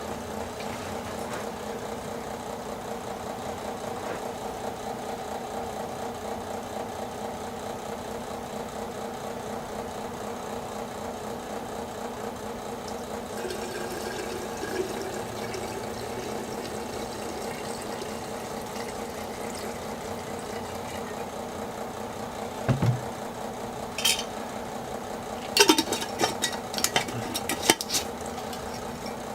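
Electric fan running with a steady hum. A few sharp clicks and knocks come near the end.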